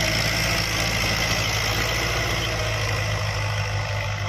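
Digitrac 4x4 tractor's diesel engine running steadily with a deep, even hum.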